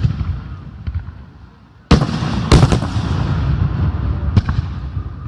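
Fireworks going off: a bang at the start, then two sharp bangs about two seconds in, half a second apart, followed by a continuous rumble with further pops.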